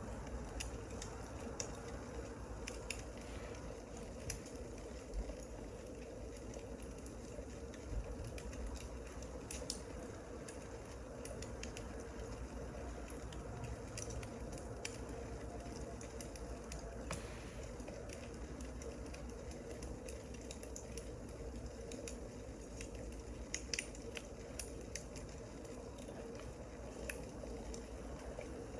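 Wood fire burning: a steady hiss with scattered sharp crackles and pops at irregular intervals.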